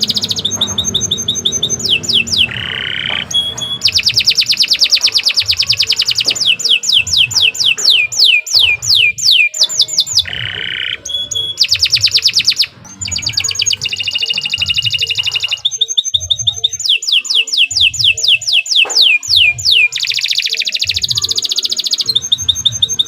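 Domestic canary singing a long, continuous song of rapid trills and rolls, with fast repeated notes and downward-sweeping whistles, pausing only briefly a few times.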